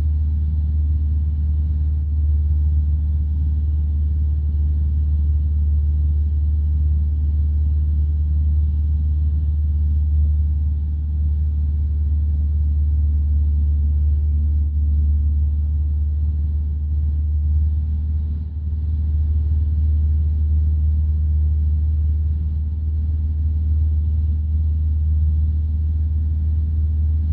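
Light aircraft's piston engine droning steadily, heard from inside the cockpit, with a brief dip in level about two thirds of the way through.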